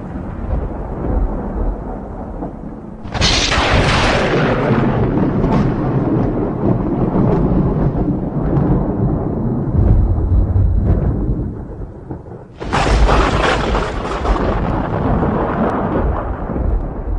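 Thunder: a continuous low rumble broken by two sudden sharp thunderclaps, about three seconds in and again about ten seconds later, each rolling off into a long rumble.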